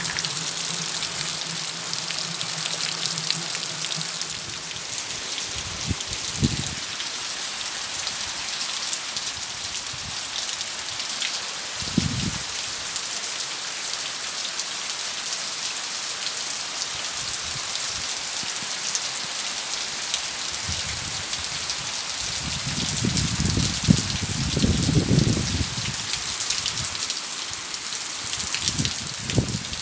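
Steady rain falling and pattering on surfaces, with a few brief low rumbles and a longer low rumble a little past the middle.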